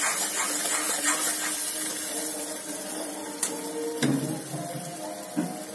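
Semolina and gram flour roasting in ghee in a pan, sizzling with a steady hiss as it is stirred with a spatula; the mixture is at the light-golden roasting stage, before the water goes in. A few sharp clicks of the spatula against the pan come a little past halfway and again near the end.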